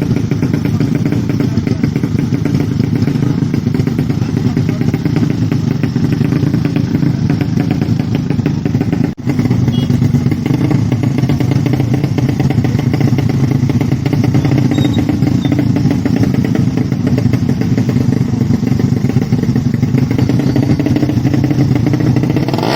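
Motorcycle engines running steadily and loudly, with a light mechanical clatter. The sound cuts out for an instant about nine seconds in.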